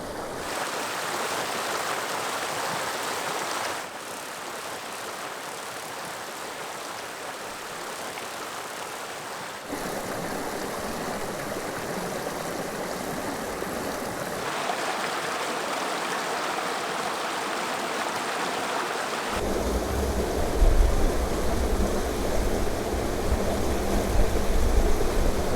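Mountain creek water rushing and splashing, heard in several cut-together shots whose level and tone jump at each cut. In the last few seconds a heavy low rumble joins the water noise.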